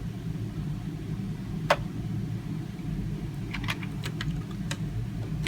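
A few light clicks and taps from small plastic parts being handled, one sharp click a couple of seconds in, over a steady low hum.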